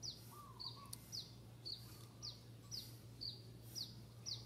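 A small bird chirping over and over, short high chirps about twice a second, some falling quickly in pitch, with a fainter lower warble near the start and again at the end. A steady low hum runs underneath.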